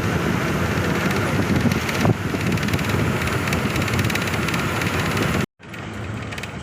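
Inside a moving bus: steady engine and road noise with wind, and a short knock about two seconds in. The sound cuts out abruptly near the end and comes back quieter.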